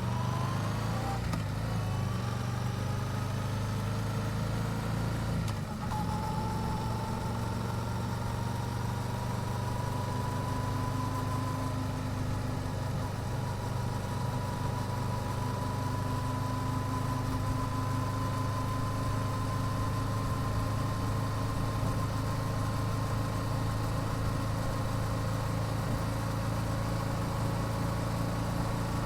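Yamaha YZF-R7's parallel-twin engine with stock exhaust under way, rising in pitch as it pulls, a brief dip at a gearshift about six seconds in, then running steadily at cruise with the pitch creeping slowly up.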